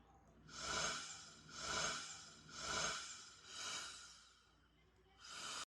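Electric air duster blowing in short blasts about a second apart, each swelling and fading as a rush of air over a motor whine. A last blast starts near the end and cuts off suddenly.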